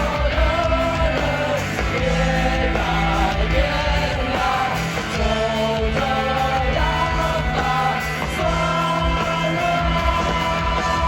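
Rock band playing live, with drums, bass and guitars under a sung melody.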